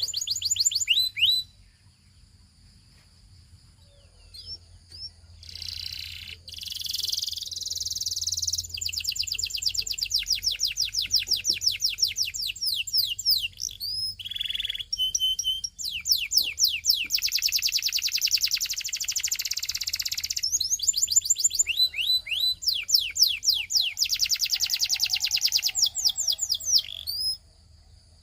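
Belgian singing canary singing long, fast rolls of rapidly repeated high notes in several phrases separated by brief pauses. There is a quiet spell of a few seconds near the start, and a faint low hum underneath.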